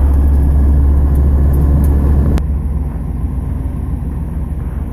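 1987 Pontiac Trans Am's 305 LB9 V8 running while still warming up after a cold start. A heavy, steady low drone drops suddenly to a quieter engine note about halfway through, with a sharp click at the change.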